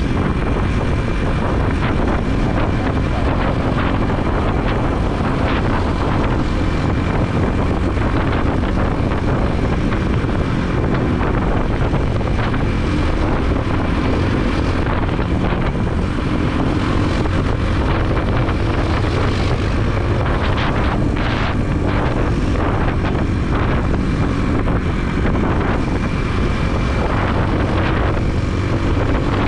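Motorbike engine running steadily while riding in traffic, picked up by a helmet-mounted camera along with road and wind noise.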